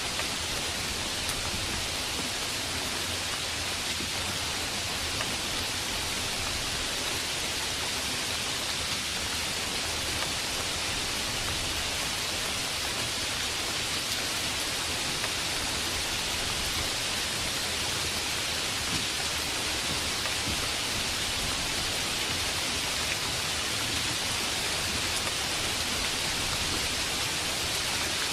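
Steady heavy rain: an even, continuous hiss with no thunder.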